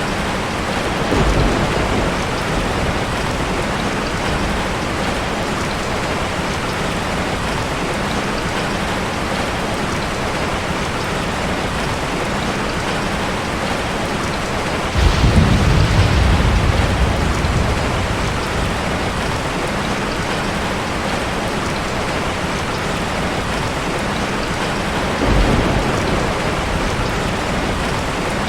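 Heavy rain falling steadily, with thunder rumbling: a short rumble about a second in, a louder roll that starts suddenly around the middle, and a smaller one near the end.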